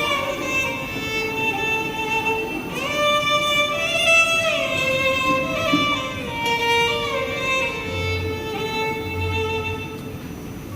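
Violin playing a slow melody with gliding notes, the instrumental introduction to a Punjabi song about a mother.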